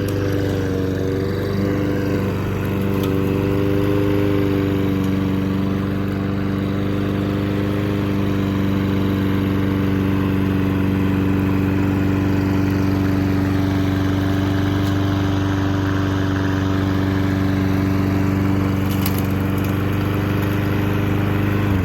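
Lawn mower engine running steadily while mowing thick, overgrown grass, its pitch wavering slightly in the first few seconds and then holding level.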